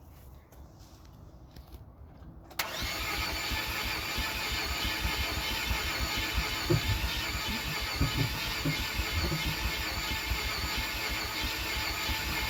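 Chevy S10 engine, with sand poured into its intake, cranking on the starter without catching. The cranking starts suddenly about two and a half seconds in and carries on steadily with a fast low pulsing.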